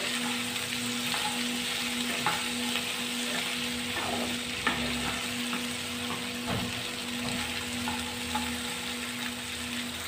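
Chopped okra sizzling steadily in hot oil in a kadhai on a high flame, stirred with a wooden spatula that scrapes the pan a few times. A steady low hum runs underneath.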